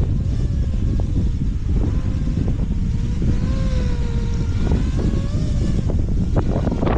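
Gusty squall-line wind buffeting the microphone: a steady heavy rumble with a thin wavering whistle and scattered knocks.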